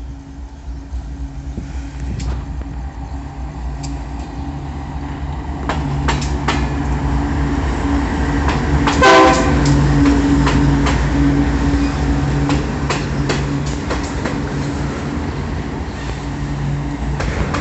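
Diesel freight train with a GE C30-7 locomotive approaching, its engine running with a steady low hum that grows louder as it nears, and wheels clicking over rail joints. A short horn blast sounds about nine seconds in.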